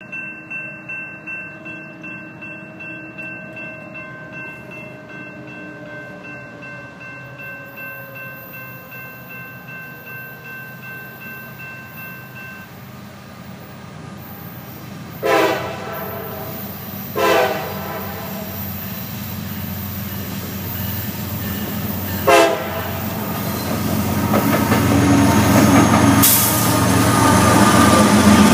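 An approaching diesel train: steady, pulsing ringing tones for the first dozen seconds, then the lead locomotive's air horn sounds three blasts about halfway through. After that the rumble of the locomotive's engine and the train builds as it draws near.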